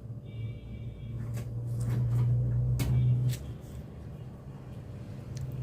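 Knife clicks and taps as okra is slit and cut on a board, over a low hum that swells and then drops off about three and a half seconds in.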